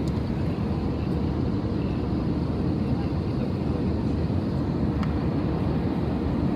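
Steady low rumble of a passenger airliner's cabin noise: engines and airflow, with no clear breaks or changes.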